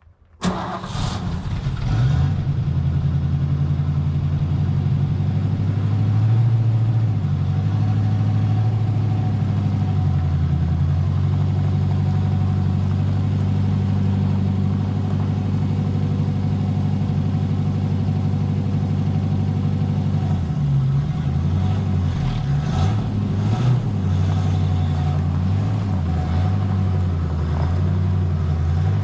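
1969 Ford Mustang's V8 engine starting about half a second in and settling into a steady idle. The engine note wavers for a few seconds about two-thirds of the way through, then steadies again.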